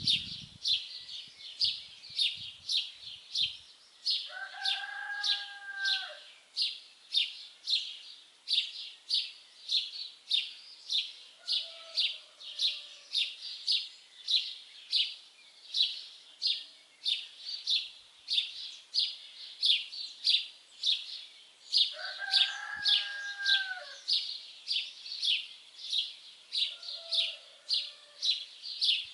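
Songbird chirping a short, high call over and over, about twice a second at an even pace. A second bird gives a longer, lower, slightly arching call twice, about five seconds in and again near the end, with fainter calls between.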